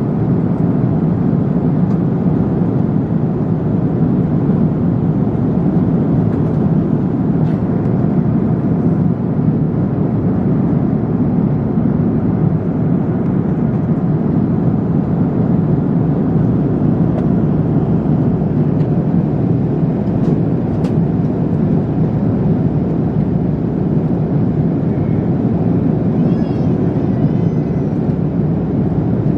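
Steady roar of an airliner cabin in flight: the even rush of engine and airflow noise heard from a passenger seat, with no breaks.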